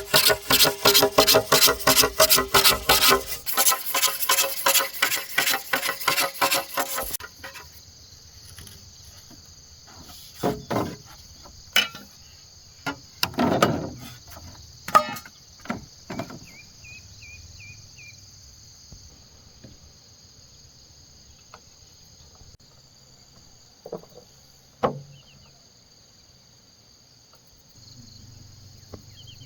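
A rapid, even run of sharp strikes, about four a second, for the first seven seconds, as in chopping or hammering bamboo. After that, a steady high drone of insects with a few scattered knocks.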